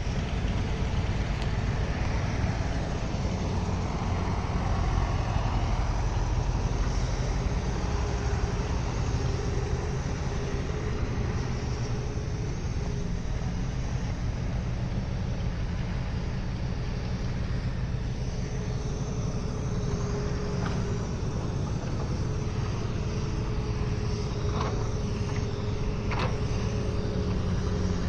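Diesel engines of a backhoe loader and tractor running steadily, with a few sharp knocks in the later seconds.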